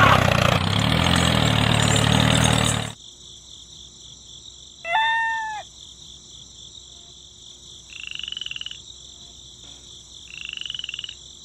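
A small motor runs with a low pitched hum for about three seconds, then cuts off abruptly. Frogs call over a steady high-pitched hum: one short call about five seconds in, then two pulsed croaks near eight and ten seconds.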